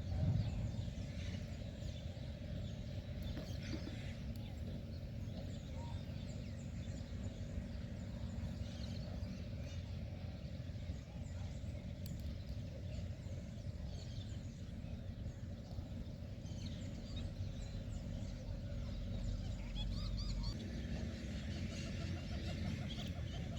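Outdoor ambience: a steady low rumble with many birds calling and chirping in the background, scattered throughout.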